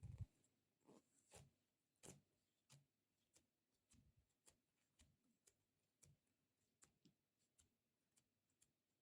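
Fingers tapping on sticky squishy stress-relief toys: a faint string of irregular clicks and ticks, roughly one or two a second, with a low thump at the very start.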